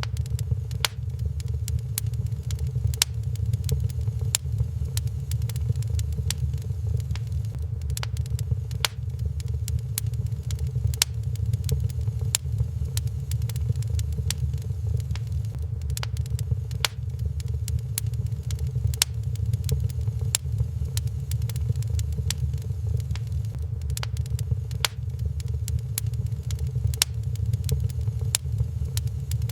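Wood fire crackling in a fireplace, with irregular sharp pops several times a second over a steady low rumble.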